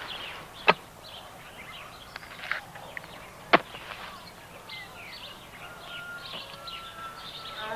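Small birds chirping and twittering, with two sharp clicks, one under a second in and the other about halfway through.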